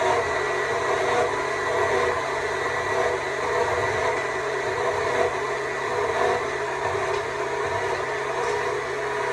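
Stihl MSA 200 C battery chainsaw running steadily with an electric motor whine and chain noise, cutting into wood during carving.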